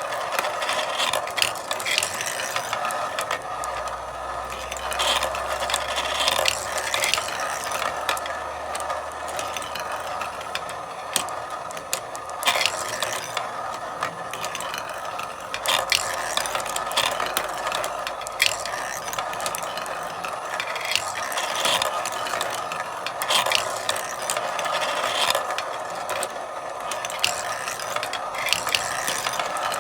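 Marbles rolling and clattering through a marble run: a steady rolling rattle broken by frequent sharp clicks as marbles knock together and drop between tracks.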